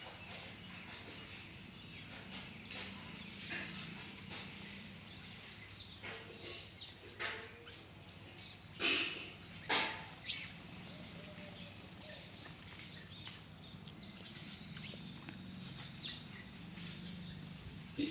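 Birds chirping in short, scattered calls, two of them loudest near the middle, over a low steady hum.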